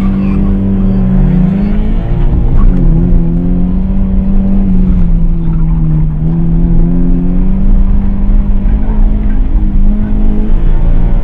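Car engine under hard acceleration, heard from inside the cabin during an autocross run. Its pitch climbs for about two seconds, drops back, then rises and falls with the throttle through the course.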